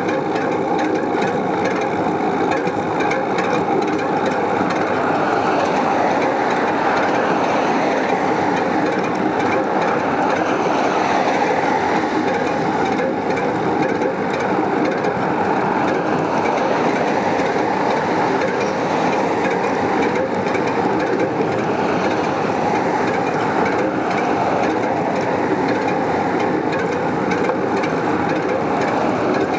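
Steady rushing noise of a bicycle in motion: wind on the microphone and the tyres rolling on the road.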